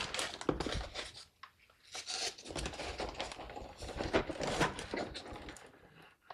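Rustling, scraping and light clicking of a power supply's box and packaging being handled and opened, in irregular short bursts with a brief pause about a second and a half in.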